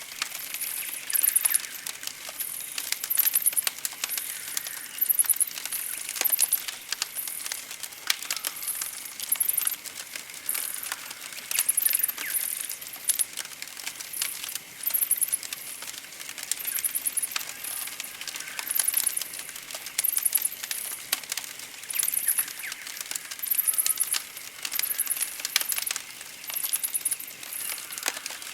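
Campfire crackling and popping in irregular sharp clicks, with birds chirping and a very high chirp repeating about once or twice a second throughout.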